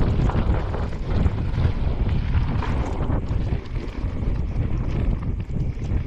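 Mountain bike riding down a dirt trail: wind buffeting the camera microphone over a constant low rumble of the tyres and bike on the ground, with scattered small knocks.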